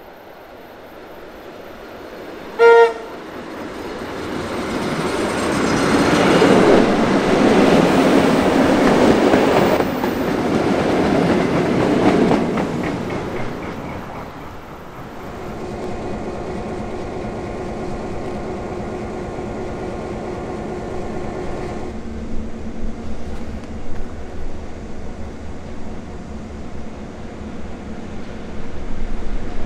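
Tait 'Red Rattler' electric suburban train gives one short horn toot, then runs past close by, its noise building to a loud peak and fading away within about ten seconds. After that comes a quieter, steady running hum as the train approaches again.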